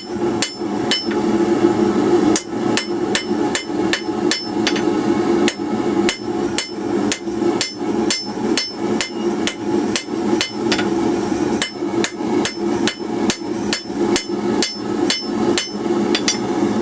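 Blacksmith's hammer striking a hot steel bar on an anvil to square it off, in a steady run of blows about two to three a second, each with a short metallic ring, over a steady low hum.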